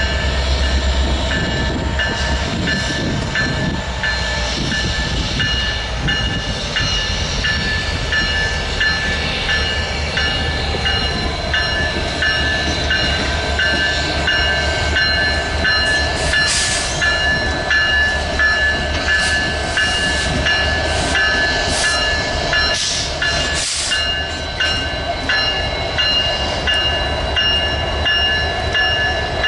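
Train passing on the rails, with continuous wheel and track noise. A steady high ringing, repeated about twice a second, runs through it, and there are a few brief louder surges of noise.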